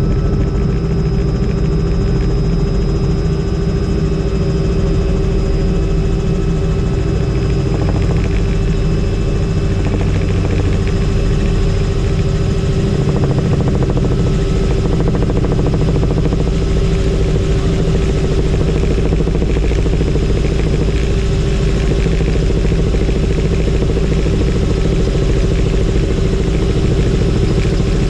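Helicopter in flight: steady rotor and turbine engine noise with a constant high whine, unchanging throughout.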